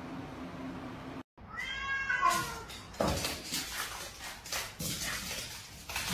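A domestic cat meowing once, a drawn-out meow about a second and a half in that bends in pitch, followed by irregular clicks and knocks.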